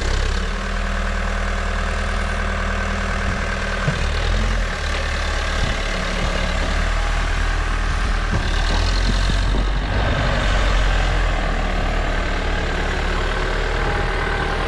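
New Holland backhoe loader's diesel engine running steadily, its note shifting a little a couple of times.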